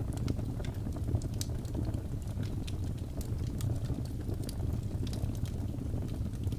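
Wood fire crackling, with frequent sharp pops scattered irregularly over a steady low rumble.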